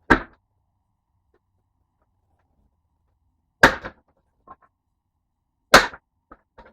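Three sharp blows splitting wood for firewood, a few seconds apart, each followed by small knocks of pieces landing.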